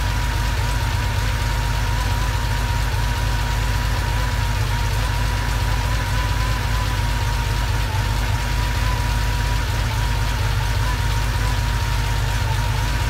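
1980 Porsche 911SC's freshly rebuilt air-cooled 3.0-litre flat-six idling steadily on its first run, warming up.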